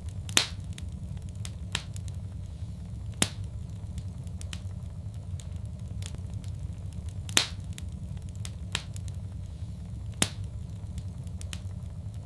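Fireplace fire crackling: sharp pops every second or two, a few of them louder, over a steady low rumble of the flames.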